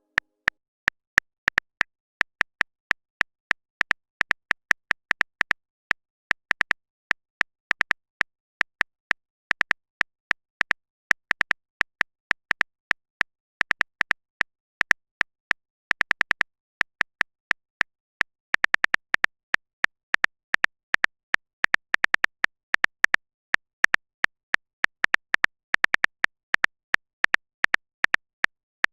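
Quick, sharp clicks of a phone-keyboard typing sound, coming irregularly in runs and bursts with short silent gaps between.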